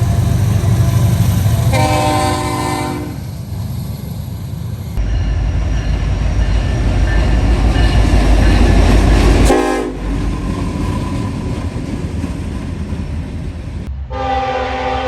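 Diesel freight locomotive horn sounding a chord over the heavy rumble of a passing train. The horn stops about 3 s in, the engine rumble grows louder for a few seconds, and a horn chord starts again suddenly near the end.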